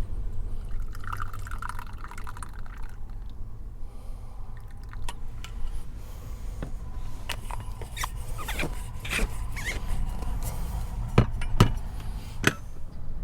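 Liquid being poured and handled, with a brief filling sound about a second in and then a series of sharp clicks and knocks. A steady low rumble runs beneath, consistent with strong wind buffeting the truck.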